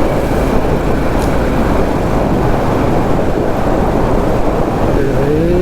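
Motorcycle running at road speed, with wind rushing over the rider-mounted microphone in a steady loud noise.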